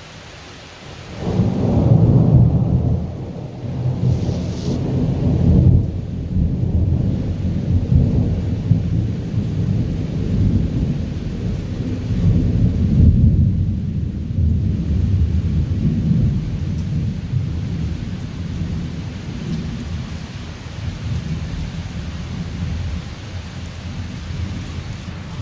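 A long roll of thunder breaks about a second in and rumbles low in several swells before slowly dying away, over steady rain.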